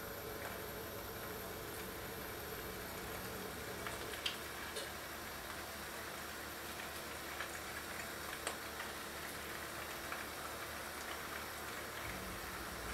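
Köfte frying in hot oil in a deep pot: a faint, steady sizzle with a few small pops.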